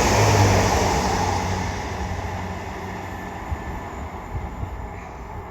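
Chiltern Railways Class 165 diesel multiple unit passing through the station, its wheel rumble and diesel engine hum loudest at the start and fading steadily as it moves away.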